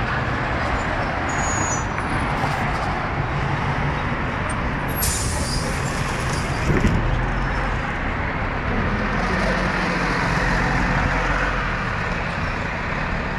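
Scania CN113CLB city bus running, its engine a steady low drone under road noise, with a brief high hiss about five seconds in.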